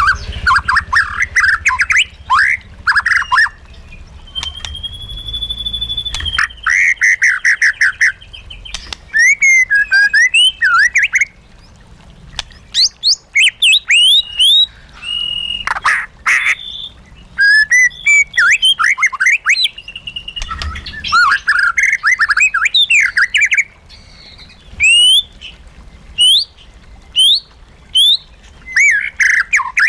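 White-rumped shama singing a long, varied song of fast rattling note series, sweeping rising whistles and harsher notes, with one held whistle about five seconds in.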